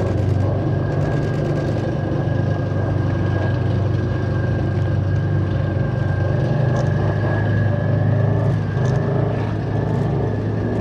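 Heavy military vehicle's diesel engine running steadily, with a deep low rumble and a steady high whine above it.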